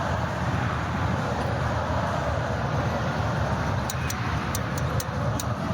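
Steady din of a crowd of spectators. About four seconds in, a run of sharp high ticks starts, two or three a second.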